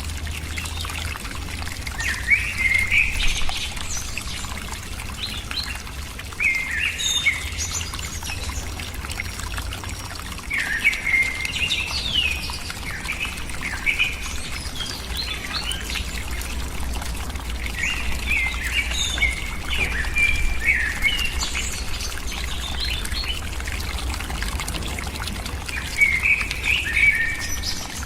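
A bird calling in short bursts of chirps, a phrase every few seconds, over a steady low rumble and watery-sounding noise.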